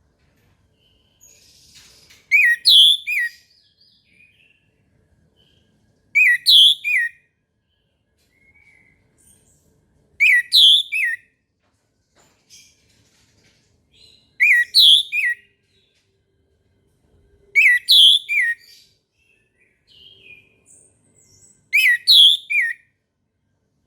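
Orange-headed thrush singing: six short, loud phrases of quick whistled notes, one about every four seconds, with faint soft notes in between.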